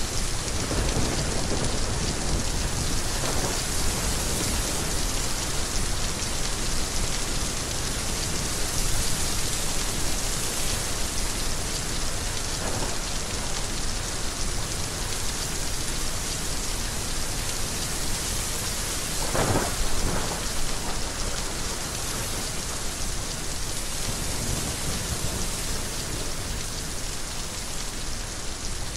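Heavy rain pouring steadily, with low rolls of thunder. The loudest thunderclap comes about two-thirds of the way through.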